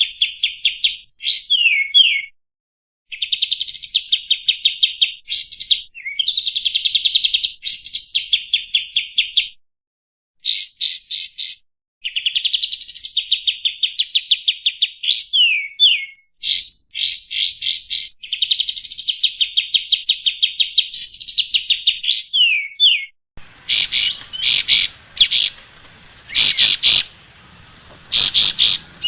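Kapas tembak songbird singing a loud, varied song: fast trills of rapidly repeated notes, broken by sweeping whistled notes and short pauses. About three-quarters of the way through, the song turns to sharper separate chirps over a faint hiss.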